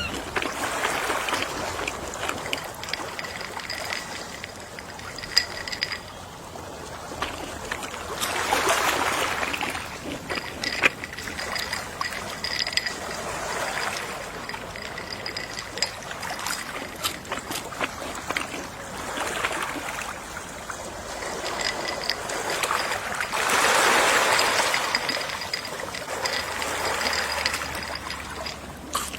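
Gentle sea waves washing onto the shore, swelling three times, with the biggest wash about three-quarters of the way through. A faint crackle of small clicks runs through the surf.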